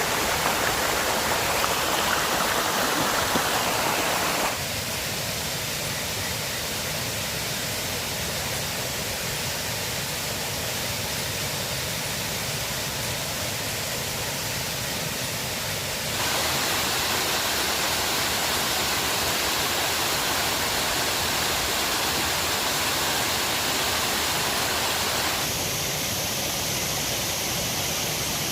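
Steady rushing of flowing river water, its tone and loudness changing abruptly about four seconds in, again about sixteen seconds in, and near the end.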